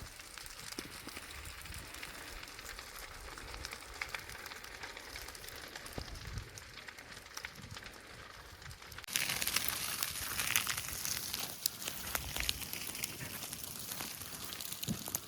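Dry grass fire burning, a dense crackling hiss full of small pops. It turns abruptly louder and sharper about nine seconds in.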